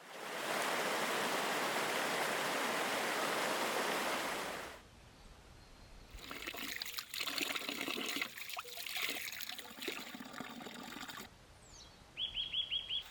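Water rushing steadily for the first few seconds, then cutting off. After it comes a quieter stretch of irregular crackling and rustling. Near the end a bird gives a quick call of about five rapid high notes.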